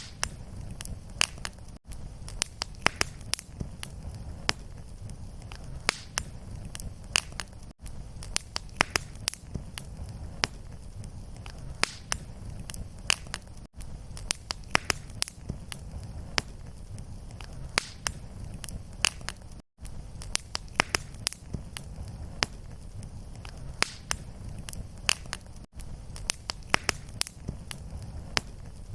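Fireplace fire crackling, with many sharp pops over a steady low rumble. Brief gaps in the sound come about every six seconds.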